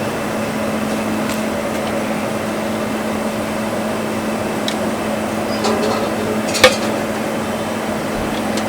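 Steady mechanical hum with a few light clinks, and one sharp knock about two-thirds of the way through.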